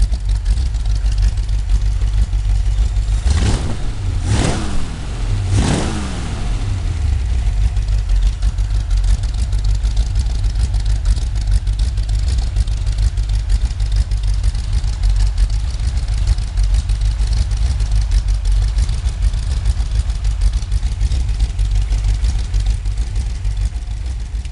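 Highly modified Ford flathead V8, bored and stroked to 284 cubic inches with a full-race Iskenderian camshaft and Navarro 2x2 intake, running. It is revved three times in quick succession a few seconds in, then runs steadily.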